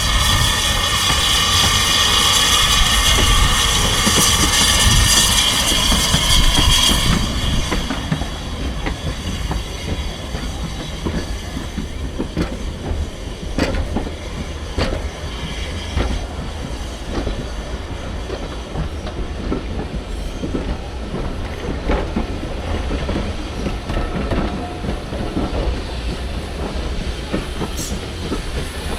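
A train running on the track at a heritage railway. For the first seven seconds or so there is a loud high squeal of several steady tones, then it settles into a rumble with irregular clicks of wheels over the rail joints.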